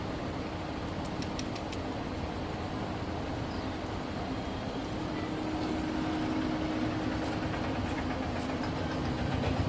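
Steady rumble of a motor vehicle's engine running nearby, with a faint steady hum, growing slightly louder toward the end.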